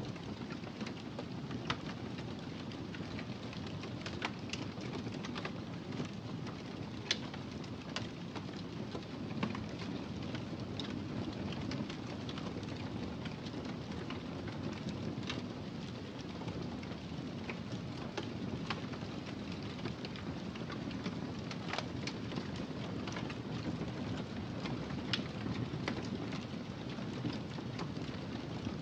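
Wood fire burning in a fireplace: a steady low rush of flames with irregular sharp crackles and pops every second or so.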